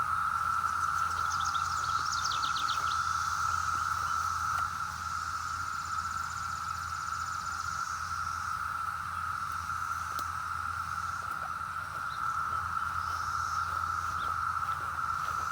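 Dense chorus of Brood X periodical cicadas: a deafening, steady, unbroken drone. A bird sings a few short, quick trills over it about a second in.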